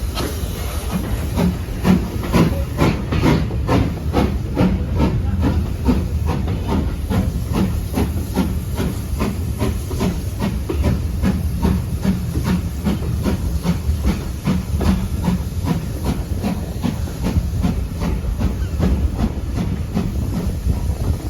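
Steam locomotive working, its exhaust beating in a regular chuff about three times a second over a steady hiss of steam, the beats clearest in the first few seconds.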